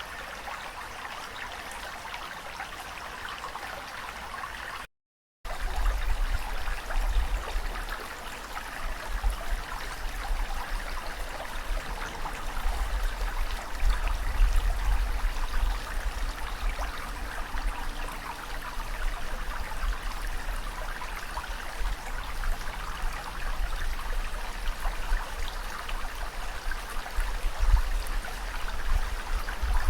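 Steady rushing water, a continuous hiss without distinct wave surges. About five seconds in it drops out to silence for half a second, then returns louder with a deep rumble underneath.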